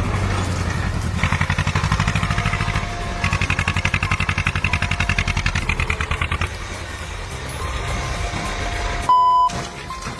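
Heavy engine running with a fast, even pulsing beat, louder through the first six seconds or so, then easing off. A short, loud beep about nine seconds in.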